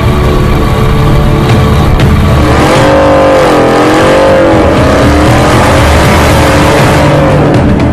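Truck engine running loud, then revved up and down from about two and a half seconds in, its pitch rising and falling in waves over a steady low rumble.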